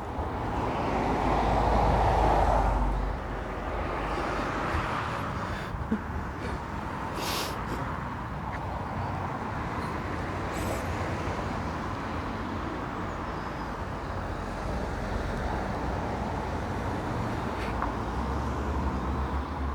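Road traffic: a vehicle passes close by, loudest about two seconds in, then steady traffic noise.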